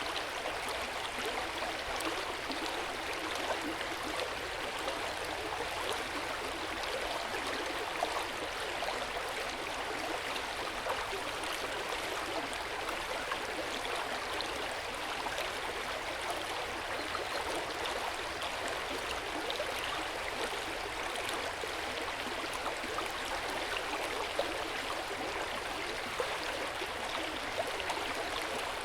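Hot spring water flowing steadily into an open-air bath, a constant gentle rush of water with small splashes and drips scattered through it.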